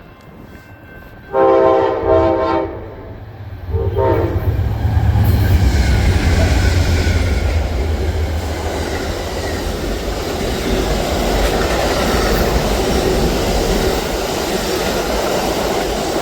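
Locomotive air horn sounding a long blast about a second in and a short one a couple of seconds later, then a train passing close by with a steady low rumble and wheels clacking over the rail joints.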